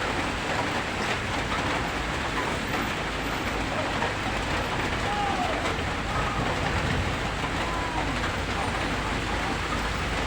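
Heavy rain falling steadily, a dense even hiss, with road traffic running beneath it.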